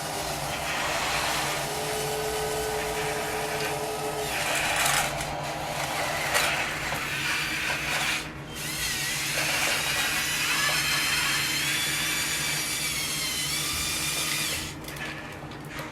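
Electric motors and gearing of a radio-controlled construction model running, a whine that shifts and glides in pitch as the machine works. It is strongest through the second half and drops away near the end.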